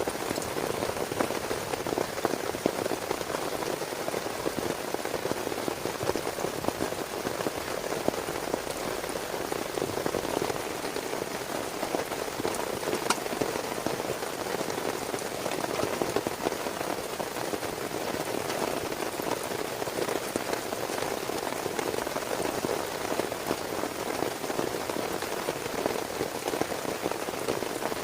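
Heavy rain falling steadily: a dense, even hiss of countless drops striking a surface, with no let-up.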